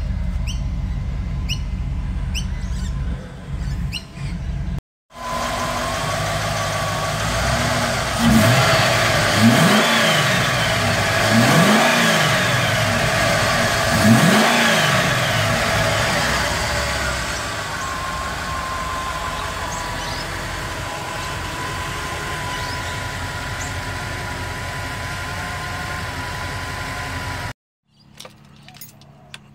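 Holden VT Commodore CSV Volanti's 5.0-litre V8 idling. It is heard first at the exhaust, then in the engine bay, where it is revved up and let fall back four times in quick succession before settling to a steady idle with a thin high whine over it.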